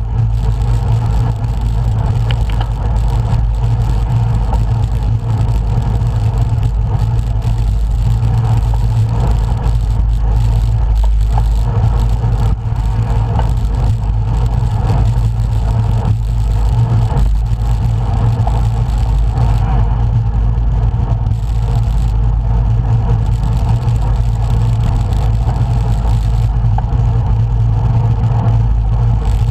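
Steady, loud rumble of wind and road noise on the microphone of a camera carried on a moving road bike.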